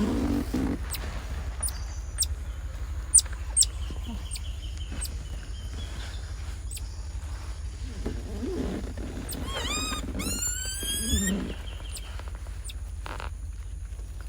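A monkey calling with a quick run of high, rising squeaks about ten seconds in, over a steady low hum; two sharp clicks about three seconds in are the loudest moments.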